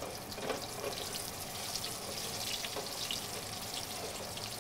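Breaded chicken cutlets shallow-frying in hot oil in a sauté pan: a steady sizzle with scattered small crackles.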